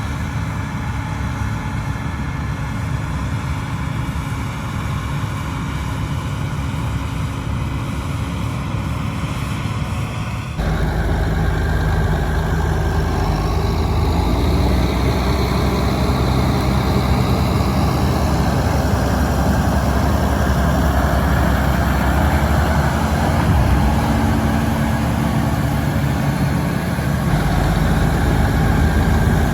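Heavy diesel harvest machinery running steadily. The sound changes abruptly about ten seconds in, getting louder and deeper, and shifts again near the end.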